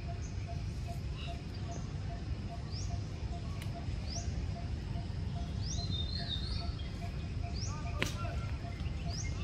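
Outdoor ambience in trees: a bird repeating short rising chirps about every second or so over a steady low rumble, with a faint tone pulsing about three times a second. One sharp click, like a twig snapping, about eight seconds in.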